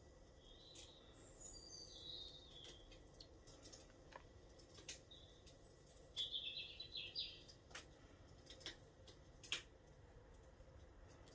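Small birds twittering in short, high chirping phrases, one run about a second in and another, louder, around six seconds. Faint scattered clicks and crackles sound throughout, with the sharpest single click near the end.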